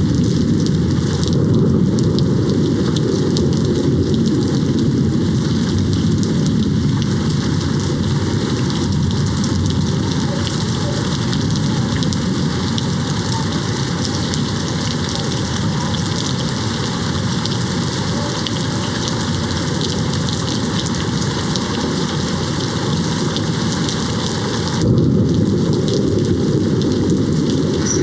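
Steady rain pattering, with many fine drop ticks, over a continuous low rumble of distant thunder. The whole sound steps up suddenly in loudness near the end.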